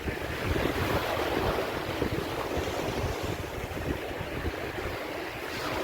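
Ocean waves breaking and washing on a beach, with wind buffeting the microphone in low rumbles.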